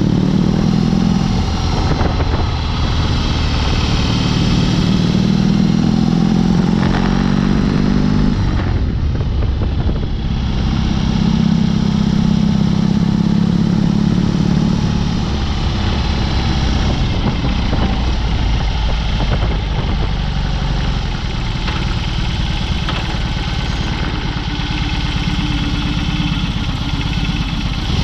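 BMW R18's big two-cylinder boxer engine running through a Dr. Jekill & Mr. Hyde aftermarket exhaust while the motorcycle is ridden. The engine note strengthens and eases several times, dropping back briefly about nine seconds in, with road and wind noise underneath.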